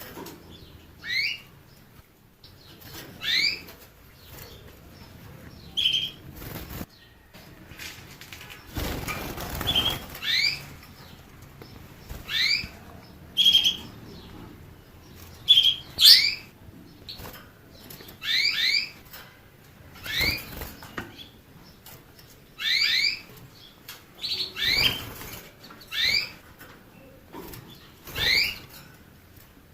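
A canary calling with short chirps repeated about every two seconds, each a quick rising double or triple note, with a few short steady whistled notes between them. A brief fluttering rustle comes about a third of the way in.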